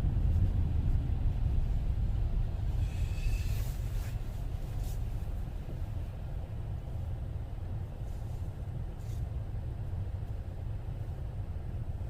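Car driving on the road: a steady low rumble of engine and tyres that eases off gradually, with a brief hiss about three seconds in.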